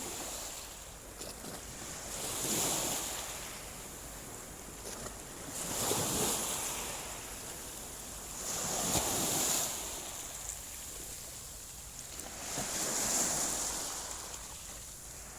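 Small waves washing in on a shallow beach, the surf hiss swelling and fading four times, about every three to four seconds.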